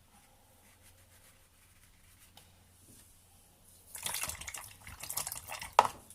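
A paintbrush being swished and rinsed in a water pot, a spell of splashing and sloshing that begins about four seconds in and ends with a sharp knock against the pot.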